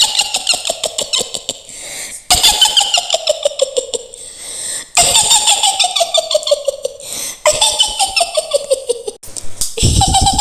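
A woman's high witch cackle, the Mak Lampir laugh. It comes in about five runs of rapid 'hi-hi-hi' pulses, and each run falls in pitch over two to three seconds.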